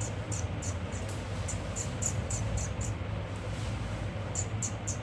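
Short high-pitched chirps repeating about four times a second, stopping for about a second past the middle and then resuming, over a steady low hum.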